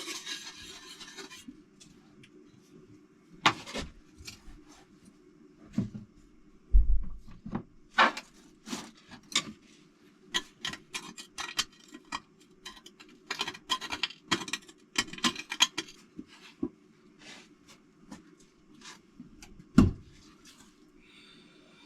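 Hand cleaning of a metal engine cover: irregular rasping and scrubbing strokes with small clicks and clatters as the part and tool shift, and two louder knocks, about 7 and 20 seconds in. A faint steady hum runs underneath.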